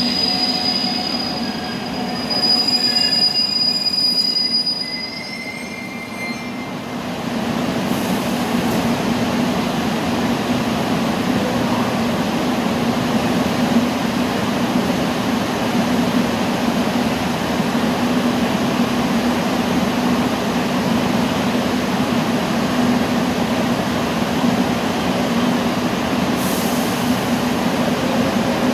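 Donghae Line electric commuter train squealing with several high tones as it brakes to a stop, the squeal ending about six seconds in. It then stands at the platform with a steady low hum.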